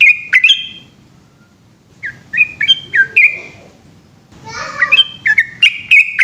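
Yellow-vented bulbul singing loud, bubbly song phrases of quick warbled notes, three phrases with short pauses between.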